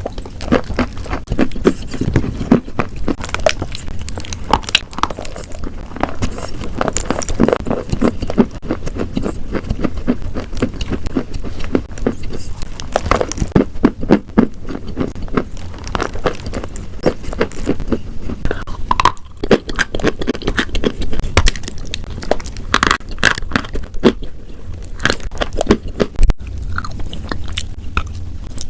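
Close-miked crunching, with continuous irregular crackly bites and chewing of something crunchy.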